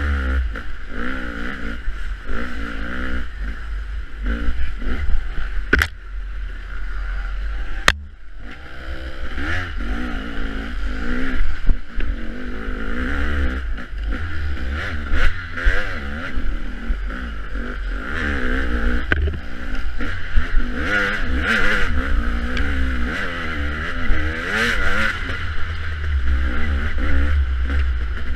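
Dirt bike engine revving up and down as it is ridden off-road, with wind rumbling on the microphone. Two sharp clicks, about six and about eight seconds in.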